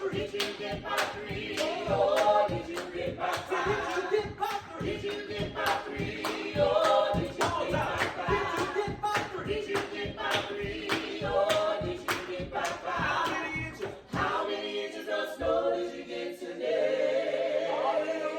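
A family's voices singing together a cappella in harmony over a steady percussive beat. About fourteen seconds in, the beat stops and the voices hold long sustained notes.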